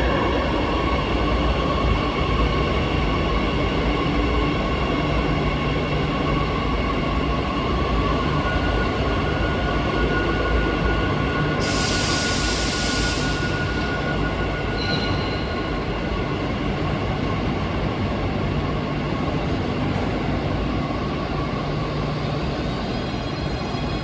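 CAF Serie 8000 electric metro train pulling out of the station: steady running and rail noise with the whine of the traction motors. About halfway through, a loud hiss lasts a second or so.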